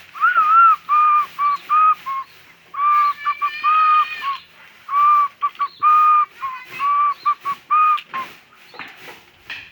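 A series of clear, short whistled notes held at nearly one pitch, in phrases of three to five, the first note bending up and down.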